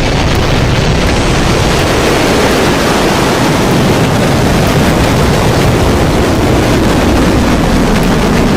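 Firefly Alpha rocket lifting off: its four Reaver first-stage engines make a loud, steady rumble that is strong in the deep lows and spreads up into a hiss.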